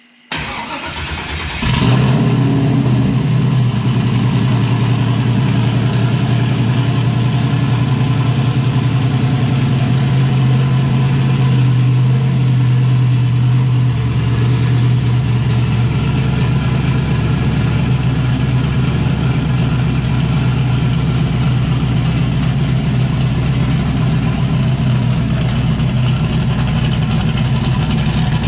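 Turbocharged LS V8 in a Chevy S10 cranking briefly and catching about two seconds in, then settling into a steady idle with the cam audible in the idle. It now runs on all eight cylinders after three clogged injectors were cleaned.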